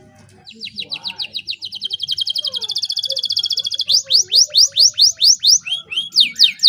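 Domestic canary singing: a fast trill of rapid down-sweeping notes starting about half a second in, changing about halfway through to slower, louder sweeping notes, then back to a fast trill near the end.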